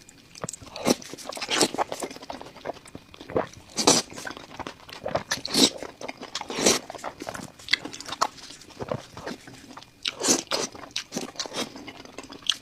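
Close-miked crunchy biting and chewing of food: irregular loud crunches and crackles, a few every second, with the biggest bites about four, six and ten seconds in.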